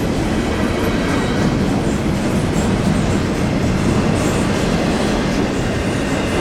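Canadian National intermodal stack train's container well cars rolling past, steel wheels running on the rails in a steady, loud rush.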